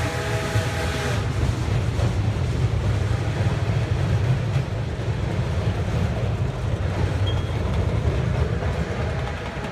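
Steam whistle of Duluth & Northeastern No. 28, a 2-8-0 steam locomotive, sounding a chord that cuts off about a second in. After it, the train runs on with a steady low rumble on the rails, fading near the end.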